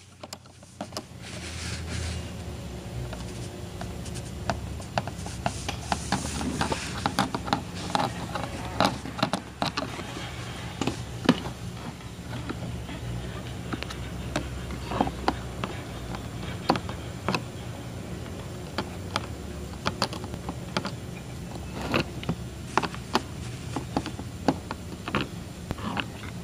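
Screwdriver work on the screws of an air-mattress blower's casing: irregular clicks, taps and scrapes of metal on the screws and plastic housing as they are undone.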